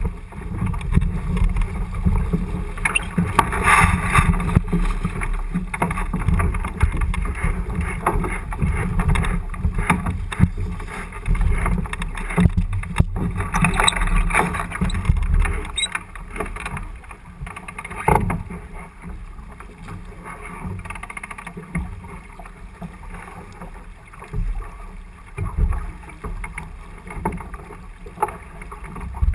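Wind buffeting the microphone and water rushing past the hull of a J80 sailboat under way, with louder surges about three and thirteen seconds in.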